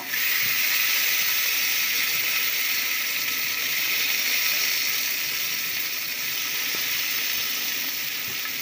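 Washed fenugreek seeds dropped into hot sesame oil with onions in an aluminium pressure-cooker pan, setting off a loud, steady sizzling hiss. It starts suddenly and slowly dies down.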